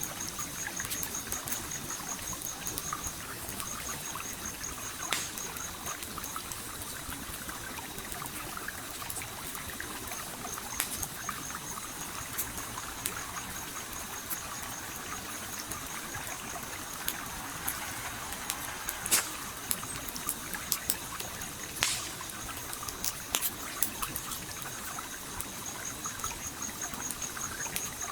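A stream flowing with a steady trickle, overlaid by a wood campfire crackling in sharp, irregular pops, a few of them louder. A high, rapidly pulsing insect trill runs alongside, breaking off twice and resuming about ten seconds in.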